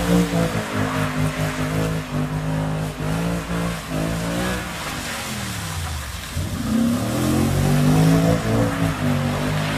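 Audi saloon's engine revving high while the car drifts. The revs hold steady at first, sag about halfway through, then climb sharply again and stay up, loudest near the end.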